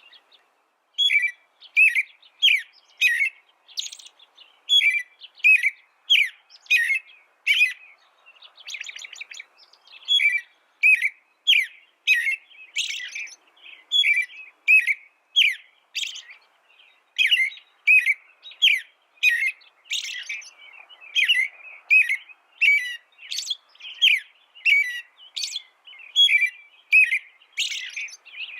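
A small songbird calling: short, high chirps repeated about one to two a second, with a brief rapid trill about nine seconds in.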